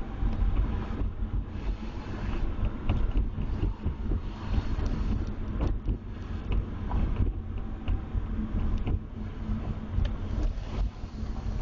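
Cabin noise of a Mazda RX-8 being driven: the rotary engine and road rumble low and uneven, with wind buffeting the microphone and a few short knocks from the car's interior.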